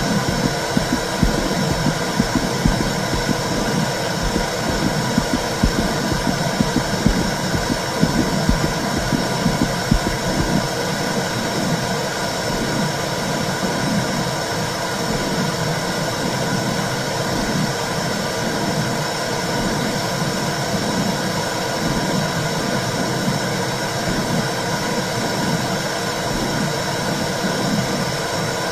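Womb sound: a continuous whooshing, rumbling noise with a soft, regular pulse about once a second, like a mother's heartbeat heard from inside the uterus. The pulse is clearest in the first ten seconds, and after that the noise runs on more evenly.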